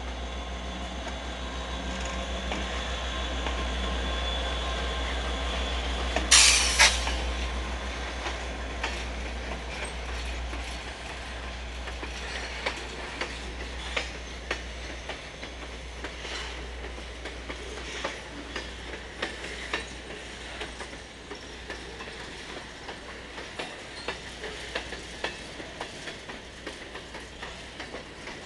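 Norfolk Southern freight train passing close by: the locomotive's diesel rumble fills the first few seconds, and a brief loud burst of noise comes about six seconds in. The freight cars then roll past with a steady rumble and a sharp wheel clack every second or two.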